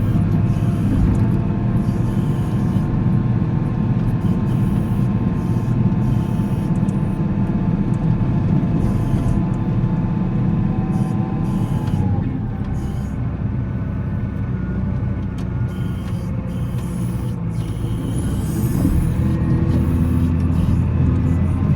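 Volvo L70C wheel loader's diesel engine running steadily; its note and loudness drop about halfway through and pick up again near the end.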